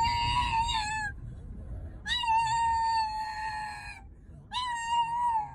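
Domestic cat meowing in three long, drawn-out calls. The middle call lasts about two seconds.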